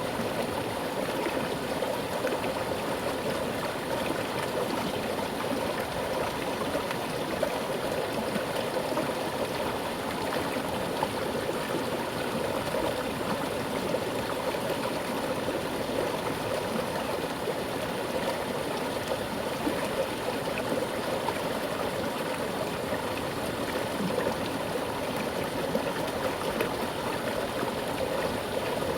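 A fast-flowing mountain stream running over rocks: a steady, even rush of water with fine gurgling and splashing detail.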